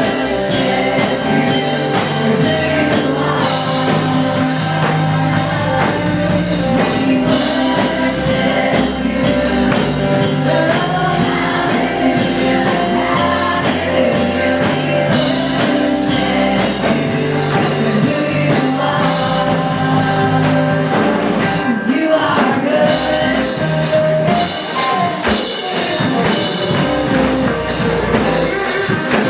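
Live band music with singing, drum kit, guitar and tambourine playing continuously.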